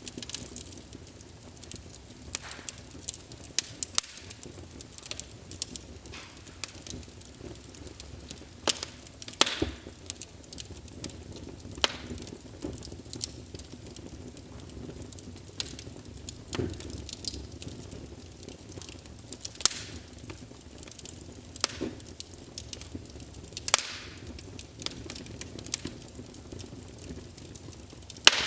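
Wood fire burning in a fireplace: a low steady hiss with irregular crackles and sharp pops from the burning logs.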